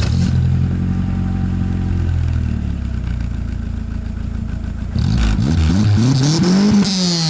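Opel Kadett 1.6i's four-cylinder petrol engine and exhaust idling steadily, then revved once about five seconds in: the pitch climbs to a peak and falls back near the end.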